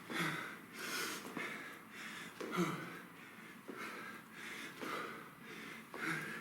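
A person breathing hard and fast during interval exercise, short rhythmic puffs of breath about twice a second, with a few soft low thumps among them.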